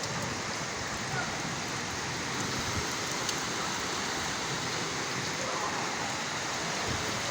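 Heavy rain falling steadily, a continuous even hiss without breaks.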